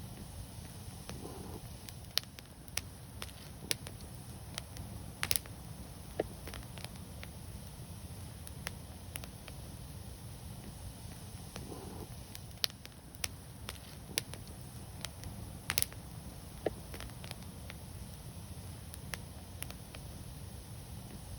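Wood fire crackling: irregular sharp pops and snaps over a steady low rumble, with the loudest pops about five seconds in and again just before sixteen seconds.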